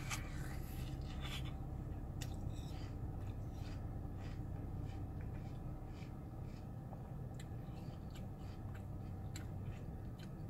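A person chewing a mouthful of watermelon, with small wet clicks and smacks coming at an irregular pace, over a steady low hum in a car cabin.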